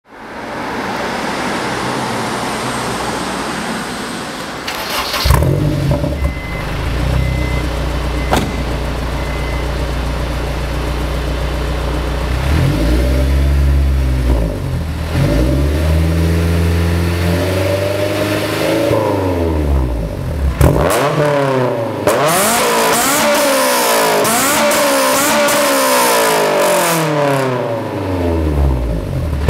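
Honda S2000 four-cylinder engine breathing through an Invidia Q300 exhaust with the catalytic converter removed, giving a loud, raspy note. It settles into a steady idle about five seconds in, then is revved repeatedly, the pitch climbing and falling with each blip, the revs going higher and coming faster over the last several seconds.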